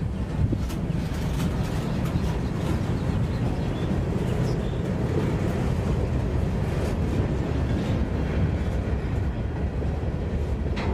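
A railcar rolling on track: a steady low rumble with a few faint clicks.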